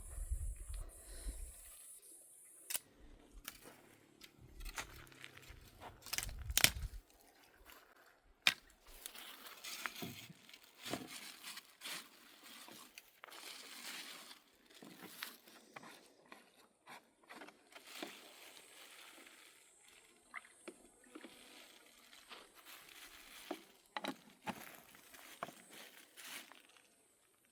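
Irregular clicks, knocks and rustling of objects being handled, with a low rumble underneath in the first few seconds. The sharpest knock comes just after six seconds in.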